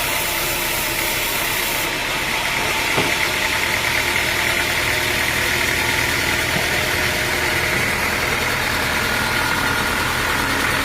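Sawmill machinery running steadily with an engine-like hum, with a faint click about three seconds in.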